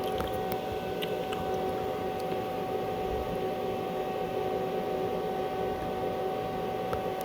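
Stick welding setup running: a steady hum and hiss with a few sharp ticks, most of them in the first second or so.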